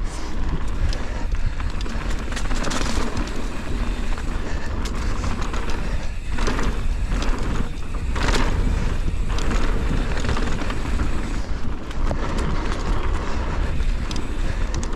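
Wind rushing over the action-camera microphone during a mountain-bike descent, with the tyres running over dirt and the full-suspension bike rattling and knocking over bumps and roots all through.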